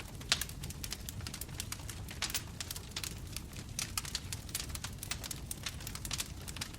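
Bonfire crackling: dense, irregular pops and snaps over the low rumble of the flames, with one sharper pop near the start.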